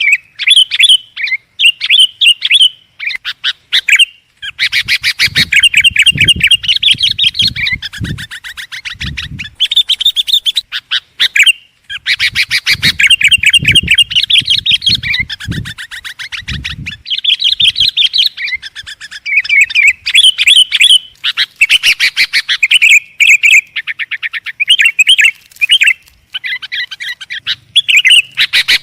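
Sooty-headed bulbul (kutilang) singing loudly and persistently: rapid strings of sharp chirps and chattering trills, repeated with only brief pauses. Some low dull thuds sound under the song in the middle stretch.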